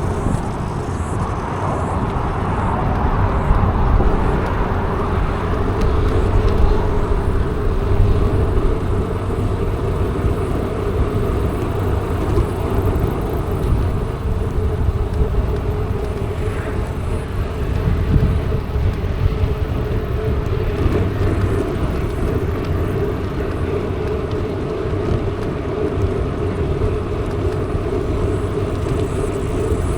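Mountain bike riding along at a steady pace: a continuous tyre hum with a slightly wavering pitch, over a steady rumble of wind on the microphone.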